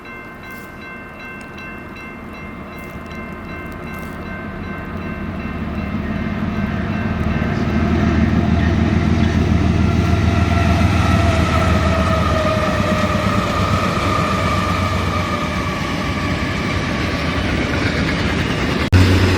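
A train approaching and passing: a horn sounds a steady chord at first, then the rumble of the diesel locomotives and the train grows louder over several seconds. Around the middle the tones fall in pitch as it goes by. The sound cuts off abruptly just before the end.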